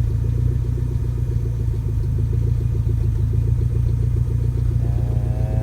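Saab 900 Commemorative Edition's turbocharged four-cylinder idling smoothly, heard at the tailpipe through an aftermarket Abbott exhaust with a steady, even pulse.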